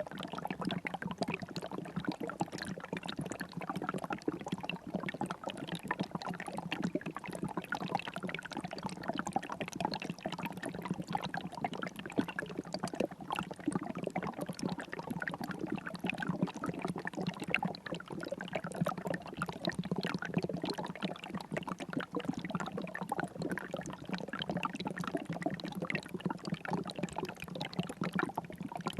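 River water flowing, a steady, unbroken rush of many small splashes.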